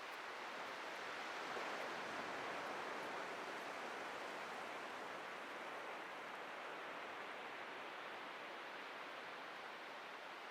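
Atlantic ocean surf breaking and washing on a beach: a steady hiss of waves that swells about two seconds in and slowly eases off.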